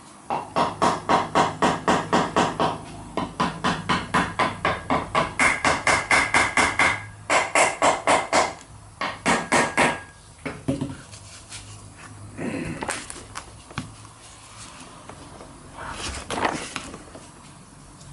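Rapid hammer blows on the extension housing of a Toyota T50 gearbox, about five a second, knocking it loose. They come in runs with short breaks over the first ten seconds, followed by a few quieter scattered knocks.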